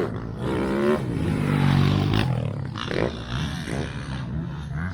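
Motocross bike engines revving, their pitch rising and falling.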